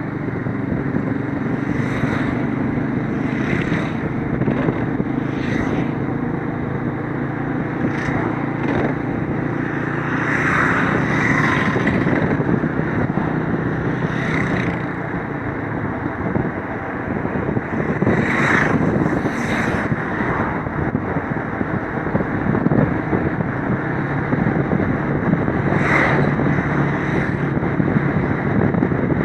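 Motorcycle engine running steadily under way, over a constant rushing noise, with short louder hissing flares every few seconds.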